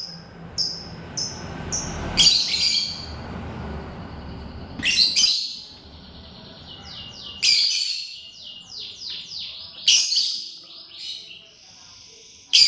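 Lovebirds calling with shrill, high chirps in short bursts, including a quick run of falling chirps about eight seconds in. A low rumble sits under the first half and stops about halfway through.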